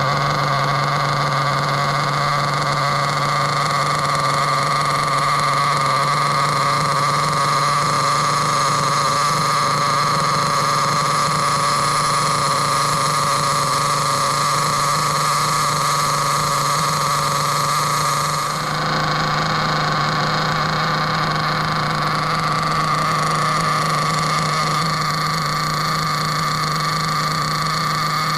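Small two-stroke glow-fuel nitro engine of a Hobao Hyper MT RC monster truck running at a steady speed. About two-thirds of the way through, its higher tones change briefly.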